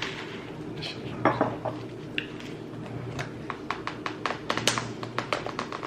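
Takeout food containers and utensils being handled: rustling with scattered light knocks, turning into a quick run of short sharp clicks in the second half, over a steady low hum.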